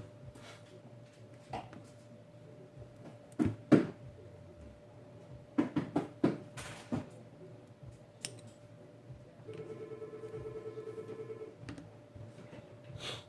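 Scattered sharp clicks and knocks of a phone and small tools being handled, then a pulsing buzz for about two seconds near the end, over a faint steady hum.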